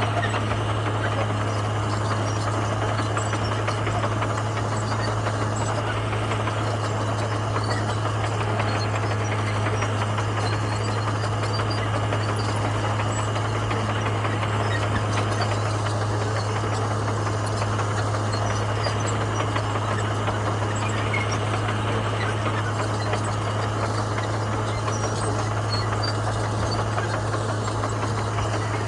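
Komatsu bulldozer's diesel engine running steadily with a constant low drone.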